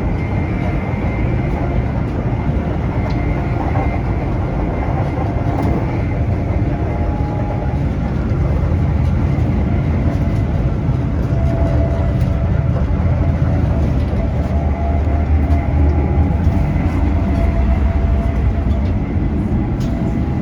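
Running noise inside a high-speed passenger train travelling at over 120 mph: a steady, loud low rumble with a faint high whine above it, growing somewhat louder about halfway through.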